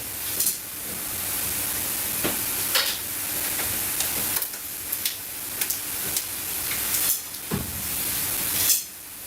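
A steady hiss with scattered light clicks and knocks.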